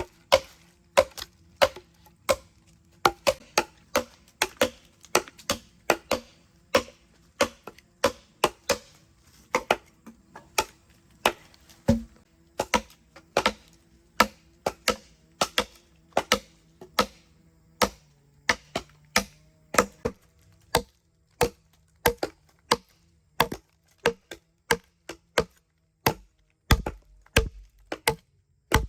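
Hammer blows on wood, a steady run of sharp knocks about two a second, as floorboards are nailed down.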